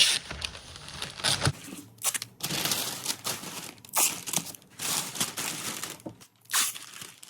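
Masking paper and tape being handled: crinkling and rustling in irregular bursts, with tape torn from the roll.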